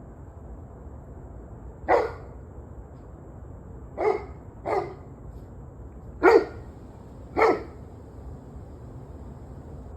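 Dog barking: five single barks spread irregularly over several seconds, the second and third close together, over a steady low background rumble.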